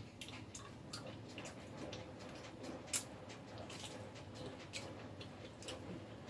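A person eating by hand, chewing with soft, irregular lip-smacking clicks and one sharper click about three seconds in.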